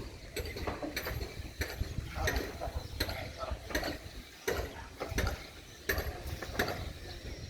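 Irregular mechanical clicks and clanks, about one to two a second, over a low rumble, from a shipyard's boat-hauling gear: winch, cable and pulleys.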